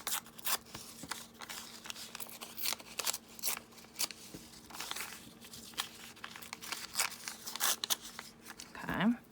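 Paper being handled and torn by hand: irregular crinkles and short ripping sounds.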